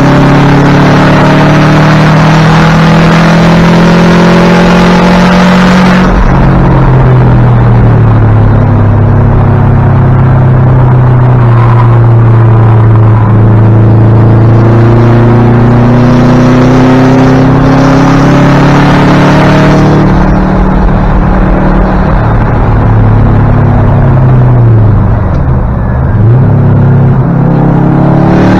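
Race car engine heard from inside the cabin, running hard at racing speed, its pitch rising and falling as the driver accelerates and lifts through the corners. About 25 seconds in, the pitch drops sharply and climbs straight back.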